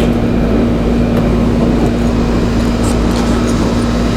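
Steady mechanical hum with a constant low tone and a low rumble, with a few faint light taps.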